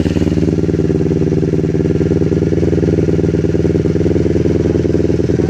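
Kawasaki Ninja 250R's parallel-twin engine idling steadily through a Leo Vince aftermarket exhaust, warming up after a cold start.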